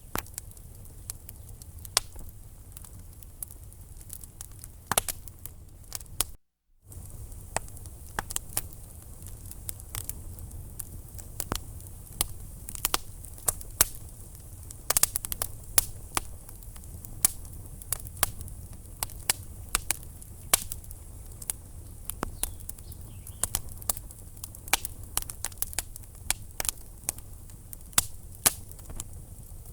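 Logs burning in a fireplace: irregular sharp crackles and pops, several a second, over a steady low rumble of the flames. The sound drops out completely for a moment about six seconds in.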